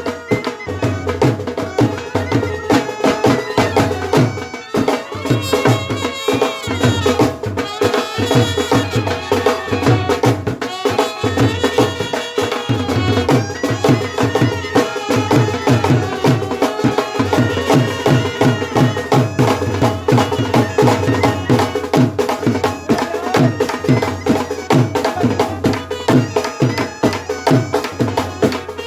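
A brass band playing traditional music: wind instruments carry a melody over a steady drum beat.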